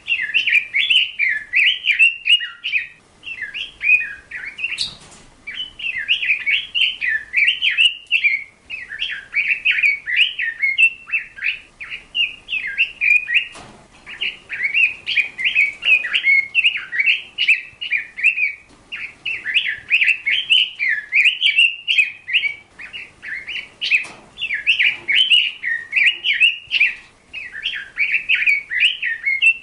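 A bird singing: a rapid, continuous chattering warble in phrases a few seconds long, with brief pauses between them.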